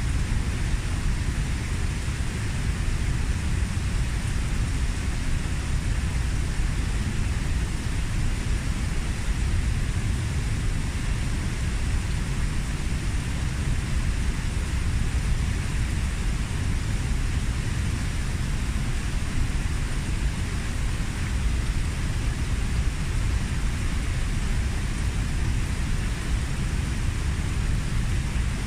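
Kozjak waterfall, about 15 m high, falling steadily into its pool: a constant deep rush of water with no change in level.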